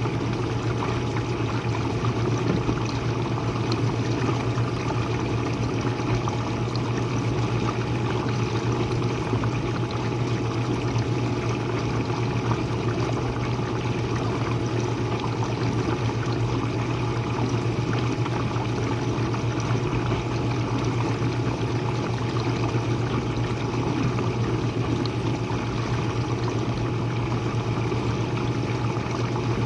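Jenn-Air dishwasher running mid-wash, heard from below: water spraying and splashing inside the tub over a steady low hum from the wash pump motor.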